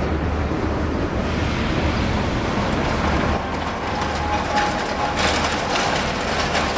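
A train moving through a station: a steady rumble, a faint thin whine from about four seconds in, and a series of rail clicks near the end.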